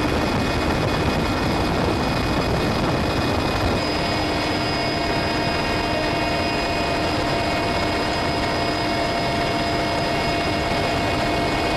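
Helicopter in flight: steady turbine and rotor noise with a constant whine that grows stronger about four seconds in.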